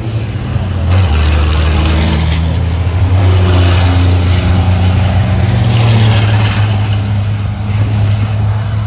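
Racing trucks' big turbocharged diesel engines running hard at speed, a loud low drone that swells sharply about a second in as a truck comes close.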